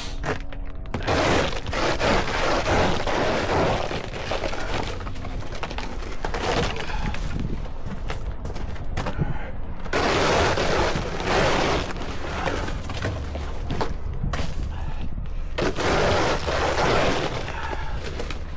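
Snow being shovelled: a shovel scraping and crunching through packed drift snow in several strokes of two to three seconds each, over a steady low rumble.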